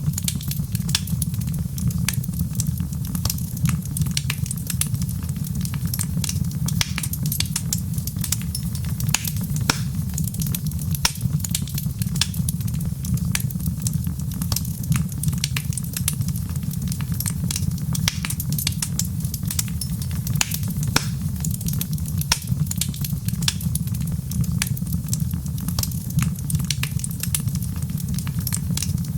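Wood fire crackling steadily, with irregular sharp pops and snaps over a low, even rumble.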